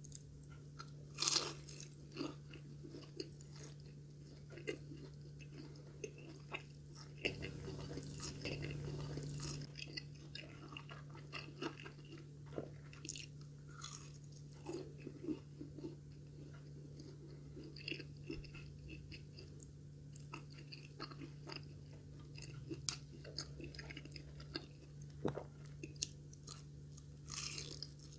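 Biting into and chewing crispy breaded, deep-fried katsu, with repeated crunches throughout; the sharpest crunches come about a second in and near the end.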